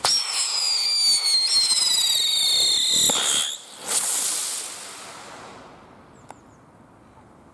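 Whistling firework going off: it starts abruptly with several shrill whistles sounding together, all slowly falling in pitch, for about three and a half seconds. Then comes a short hissing burst that fades away over the next two seconds.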